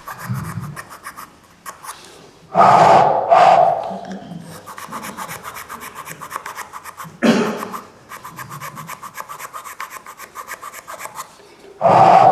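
Square file rasping back and forth in the hole of a turned wooden humming top, in quick short strokes, with a few louder rushes of sound between the spells of filing.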